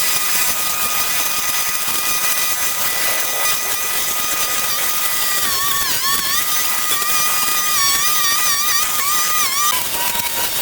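A power tool's motor running with a high whine over a hiss. The pitch holds steady for about five seconds, then wavers and dips again and again, as a motor does when it is loaded and released.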